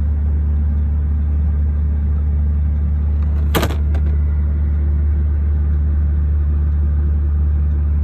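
Steady low hum of a 2016 Volvo 780 truck's diesel engine idling, heard from inside the cab, with a single sharp knock about three and a half seconds in.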